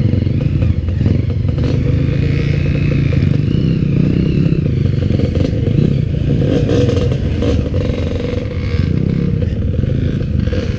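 Enduro dirt bike engine running steadily with small rises and falls in revs, with clattering from the bike on rough ground.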